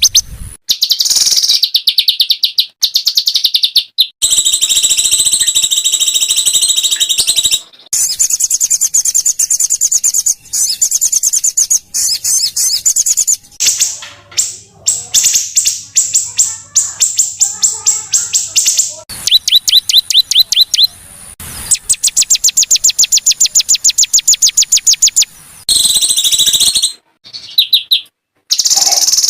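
Small songbirds singing rough, rapid 'tembakan' phrases: fast runs of many sharp repeated high notes, in phrases of a few seconds separated by brief breaks.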